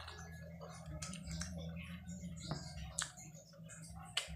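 Close-miked mouth sounds of someone eating sour calamansi and lemon: chewing, with a handful of sharp irregular clicks and lip smacks, over a low steady hum.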